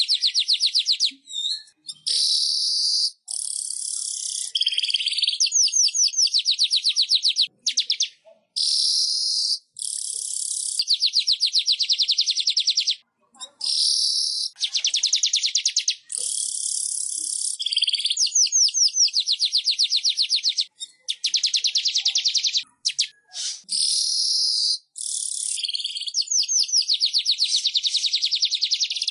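Weaver (manyar) song: high, rapid dry ticking trills alternating with buzzy, hissing phrases, repeated in bursts with short breaks between them.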